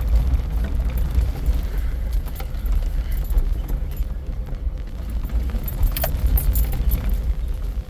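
Low rumble of a 4x4's engine and drivetrain heard from inside the cab while driving an off-road trail, with loose items rattling and clinking throughout.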